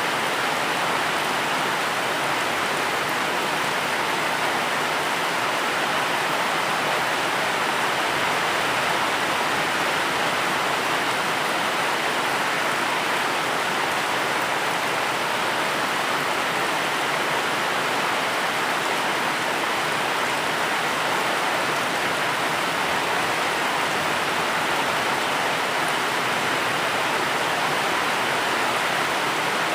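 Steady, even rain, a continuous hiss without separate drops standing out.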